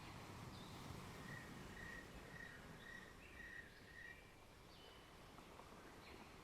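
Faint birdsong: a bird repeats a short clear note about twice a second, six times in a row, among a few scattered higher chirps, over a soft steady rushing background.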